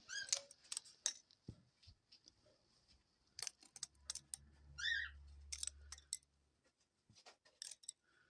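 Small sticks clicking and tapping against a wire cage and its floor as a pet dove picks them up and twirls them in her beak, with a few short high squeaks.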